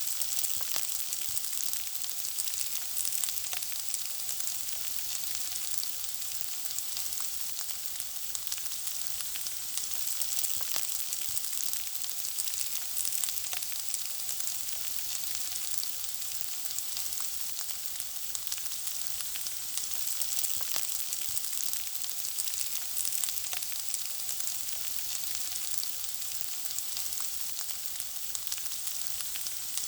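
Food frying in hot oil: a steady high hiss of sizzling with a constant scatter of small pops and crackles.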